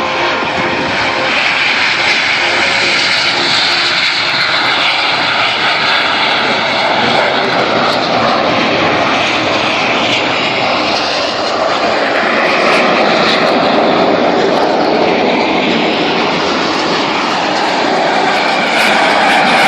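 Airplane flying by with loud, steady engine noise whose tone slowly sweeps up and down as it moves.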